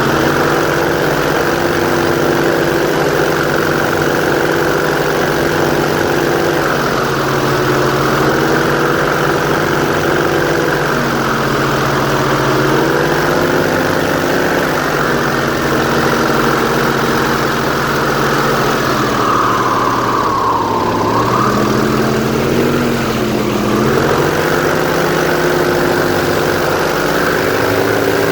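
Airboat engine and propeller running under way, its pitch stepping up and down as the throttle changes, dropping for a few seconds about two-thirds of the way through and then climbing again.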